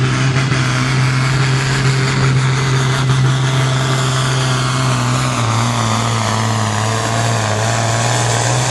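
Engine of a modified International 1455 pulling tractor running steadily at a high idle, its pitch dropping a little about five and a half seconds in.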